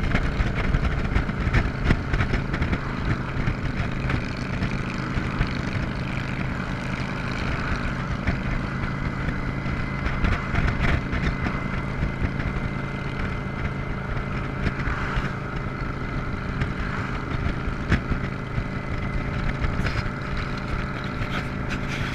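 Motorcycle engine running at a steady cruise, with wind noise.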